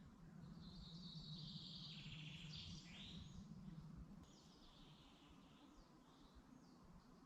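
Songbirds singing faintly: a buzzy trilled phrase for a couple of seconds, then a run of short, quick falling notes, over a steady low background hum.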